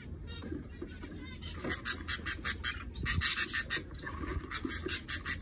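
Cage birds calling in a rapid run of raspy chirps, about five a second, starting a little under two seconds in and growing louder.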